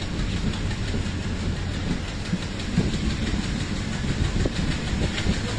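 Indian Railways passenger coach running along the track, heard from its open side: a steady rumble of wheels on the rails with light, scattered clicking.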